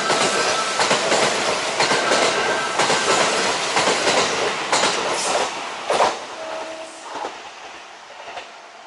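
Electric train passing close by, its wheels clacking over the rail joints with a high tone coming and going. The sound is loud for about six seconds, then fades as the train moves away.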